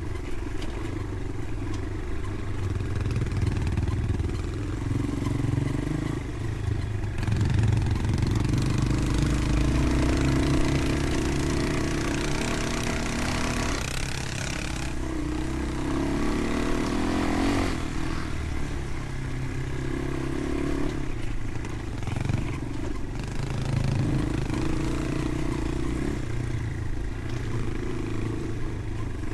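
Motorcycle engine running under way, its revs rising and falling, with a louder rushing hiss through the middle.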